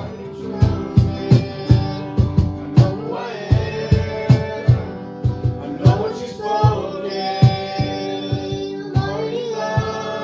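Live worship band playing with voices singing long held notes over a steady drum beat.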